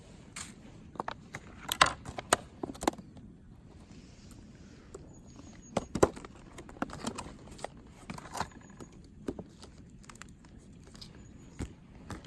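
Irregular clicks, taps and clatter of small objects being handled, the sharpest knocks about two seconds and six seconds in, over a faint steady background hiss.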